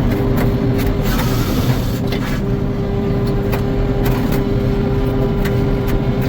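Sawmill running: a steady machine drone with a held hum, and scattered sharp clicks through it.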